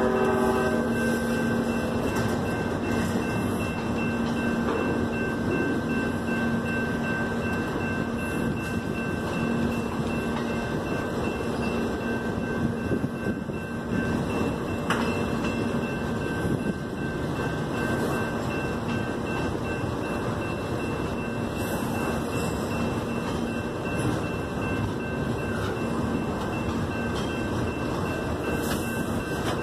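Double-stack container well cars of a freight train rolling past close by, giving a steady rumble and rattle of wheels on rail. A held pitched tone fades away in the first second or two.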